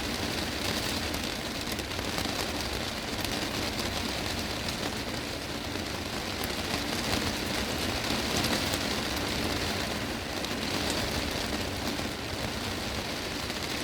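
Heavy rain falling steadily on a greenhouse's glass roof: a dense, even hiss of countless drops striking the glass.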